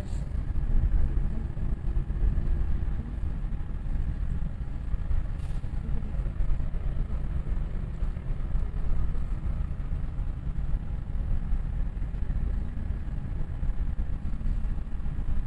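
Passenger train running slowly along the track, heard from inside the carriage: a steady low rumble.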